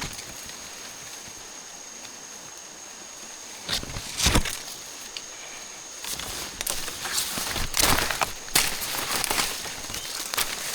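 Irregular cracking and snapping, like twigs and dry leaves being stepped on or handled in forest undergrowth. Two louder knocks come about four seconds in, and the cracking grows busier in the second half. A thin steady high tone runs underneath.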